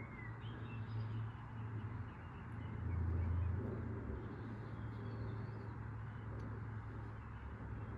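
Washing machine running with a steady low hum and drum rumble, swelling louder about three seconds in. Birds chirp faintly in the background.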